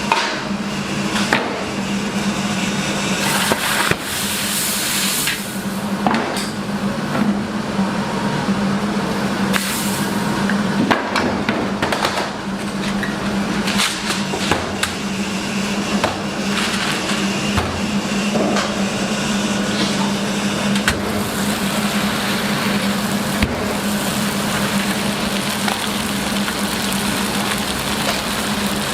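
Restaurant kitchen work: irregular knocks and clanks of utensils and cookware over a steady low mechanical hum.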